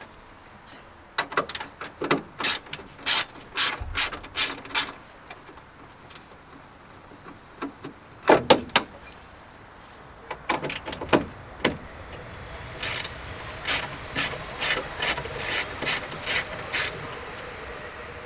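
Ratchet wrench clicking in several short runs while undoing the fasteners that hold a car's front grille, with a regular run of clicks near the end.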